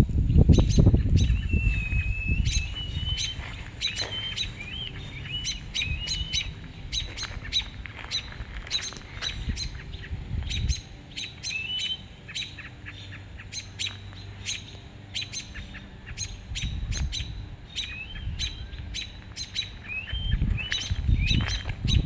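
Birds chirping: many short, sharp chirps repeating all the way through, with several wavering whistled notes among them.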